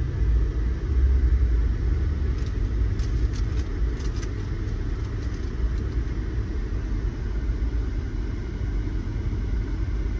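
Deep, steady rumble of a vehicle engine, a little louder in the first second or so, with a few faint sharp ticks around the middle.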